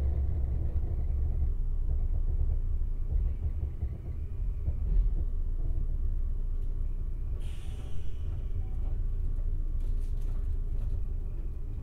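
Steady low rumble of the Kintetsu 26000 series Sakura Liner running, heard from inside the passenger car, with a short hiss about seven and a half seconds in.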